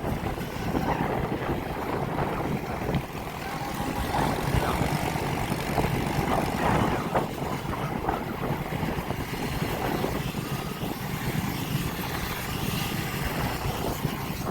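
Dirt bikes and motorbikes running and revving together, a steady mass of engine noise with some revs rising and falling.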